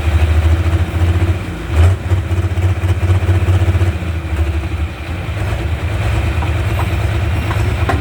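Large pulling-tractor engine running steadily with a deep, low rumble, and one sharp clack about two seconds in.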